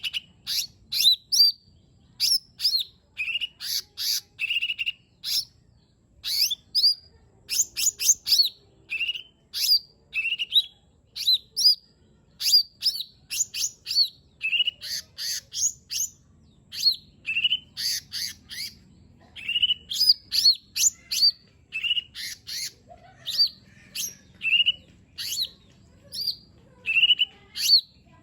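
Lesser green leafbird (cucak ijo mini) singing a fast, varied song of sharp chirps and short whistled notes, several a second and high-pitched.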